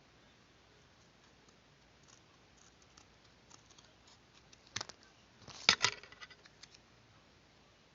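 Paper and small craft tools being handled on a work surface: scattered faint clicks, then a sharp click about five seconds in and a louder burst of crackly clicks and rustles a moment later.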